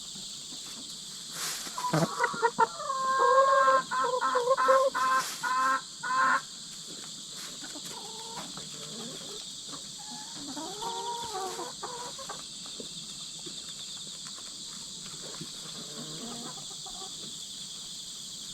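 Chicken squawking loudly in a rapid string of harsh repeated calls for about four seconds, then quieter clucking calls. The squawks are typical of hens squabbling over the pecking order. Insects chirr steadily underneath.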